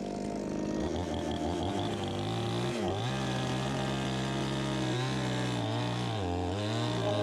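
Two-stroke chainsaw engine running steadily, its speed dropping and picking up again several times.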